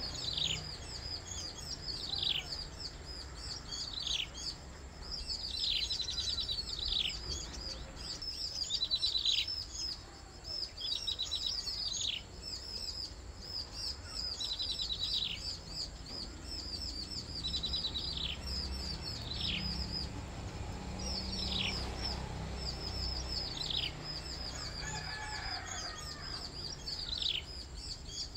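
Small bird calling over and over: high, thin notes that sweep steeply downward, about one every second or two, some with a fast buzzy trill, over a steady low background rumble.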